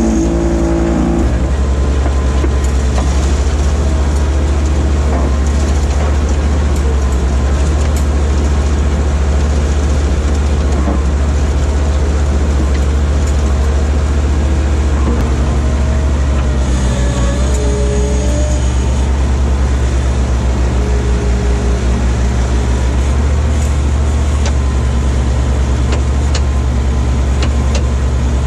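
Small skid steer loader's engine running steadily under the operator, with a few higher tones shifting in pitch partway through as the machine works.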